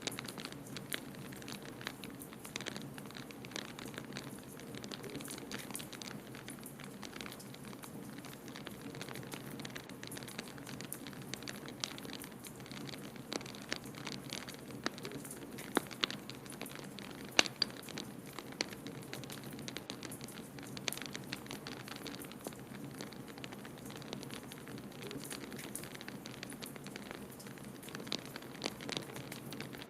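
Wood fire crackling in a fireplace, with irregular small pops and a couple of sharper snaps in the middle, over a steady low rushing noise.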